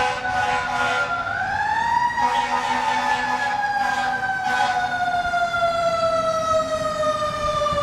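Emergency vehicle siren wailing: its pitch sinks, rises again about a second in, then falls slowly for the rest of the cycle.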